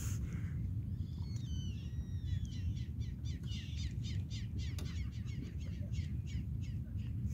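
Birds calling: a few short gliding whistles, then a quick run of scratchy calls, about five a second, over a steady low rumble.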